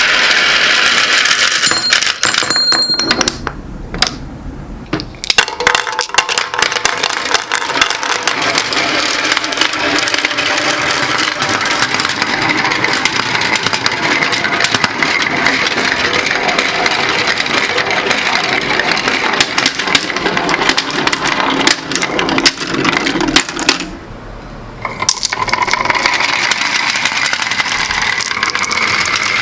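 Many glass marbles rolling and clicking along a marble run: a continuous clatter of small glass-on-glass and glass-on-track clicks over a rolling rumble, dropping off briefly twice, a few seconds in and again about three-quarters of the way through.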